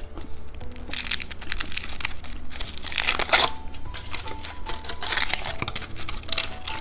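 Candy packaging being crinkled and handled as it is opened: rapid clusters of crackles, coming and going in bursts.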